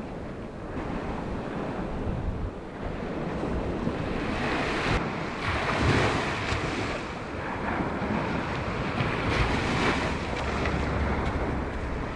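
Waves breaking on the beach in a steady wash that swells and eases, with wind buffeting the microphone.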